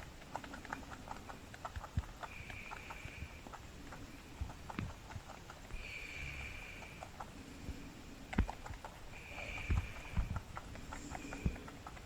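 Rabbit making rapid small clicking sounds, with a few louder knocks and short hissy bursts of about a second, repeating every second or two.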